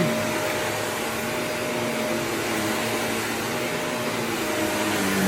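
Canister vacuum cleaner running steadily, with a constant hum.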